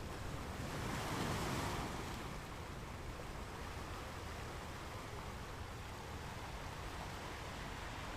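Ocean surf: a wave washes in and peaks about a second in, then a steady hiss of water.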